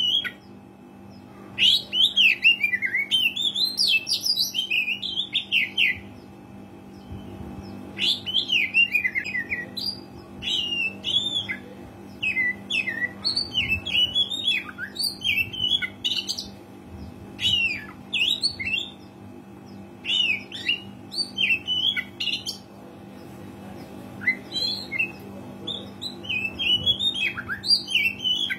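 Oriental magpie-robin singing a varied song of quick, sweeping whistled and chattering notes, delivered in phrases of a few seconds with short pauses between them. A steady low hum sits underneath.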